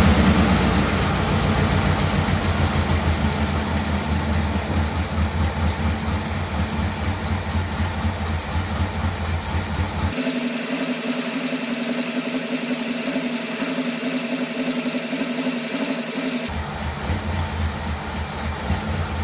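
1957 Ford Thunderbird V8 idling with an even, pulsing exhaust beat. It runs on the primary two barrels of its four-barrel carburettor with a substitute metering plate. The engine settles from a slightly faster speed in the first couple of seconds.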